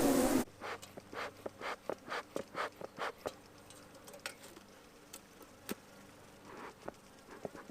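Loud buzzing of a mass of disturbed honeybees close to the microphone, from a hive just opened, cutting off suddenly less than half a second in. Then a quick run of light clicks, about three or four a second for a few seconds, thinning out to fainter scattered clicks.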